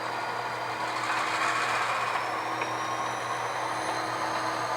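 HO scale model diesel locomotive moving on the layout, its sound decoder playing a steady diesel engine rumble through the model's small speaker. A faint high whine rises slowly from about two seconds in.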